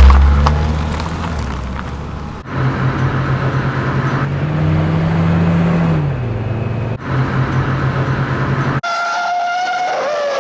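Dubbed-in heavy vehicle sound effects with abrupt cuts. A loud hit at the start is followed by a big engine running with a pulsing throb that drops in pitch about six seconds in. Near the end a loud horn sounds, its pitch sagging slightly.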